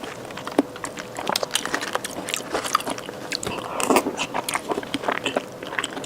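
Close-miked eating sounds: irregular chewing, lip smacks and wet mouth clicks, with a short louder patch about four seconds in.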